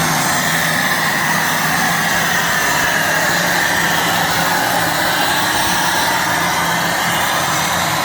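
Four-turbocharged, 504-cubic-inch pulling tractor engine running flat out under load during a pull: a loud, steady drone with a high whine over it that wavers slightly in pitch.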